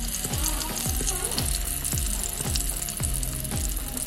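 An omelette sizzling steadily in a hot frying pan, over background music with a deep, regular beat about twice a second.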